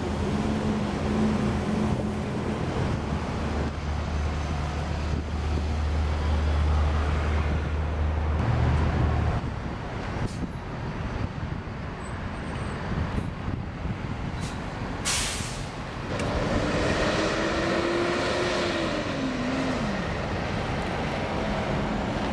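Heavy trucks' diesel engines running, with a short, sharp air-brake hiss about two-thirds of the way through. Near the end an engine's pitch rises and then drops as a truck pulls off.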